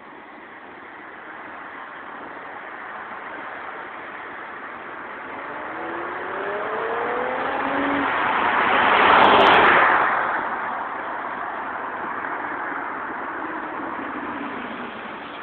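2010 Ford Mustang V6 with a loud tuned exhaust accelerating past. The engine note rises in pitch as it revs, is loudest as the car passes about nine seconds in, then drops away.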